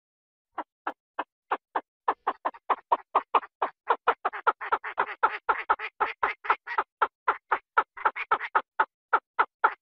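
A rapid series of short, harsh calls. They start about half a second in, a few at first, then quicken to about four a second and keep going.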